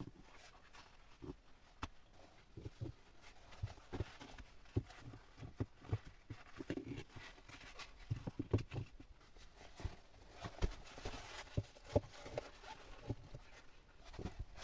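Irregular light knocks and thuds, some close together and some a second or more apart, with faint rustling between them.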